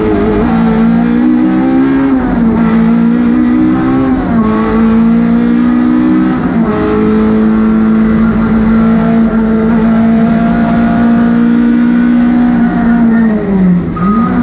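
MG ZR rally car's engine, heard from inside the cabin, pulling hard through the gears: the pitch climbs and drops back at three upshifts in the first seven seconds, then holds steady at high revs. It dips briefly and picks up again near the end.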